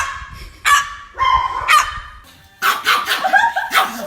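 A series of short, sharp barks about half a second apart, then a quicker run of yelping barks in the last second and a half.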